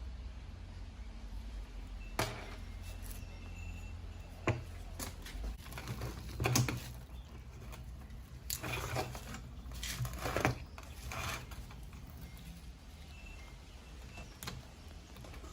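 Scattered clicks, taps and short scrapes of small parts and tools being handled, with the busiest stretches about six seconds in and again around nine to ten seconds, over a low steady hum.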